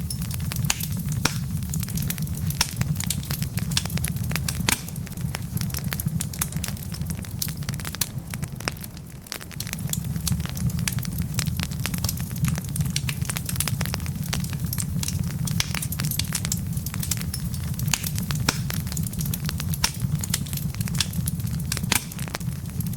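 Wood fire burning in a fireplace: a steady low rumble of flames with frequent irregular sharp pops and crackles from the burning logs.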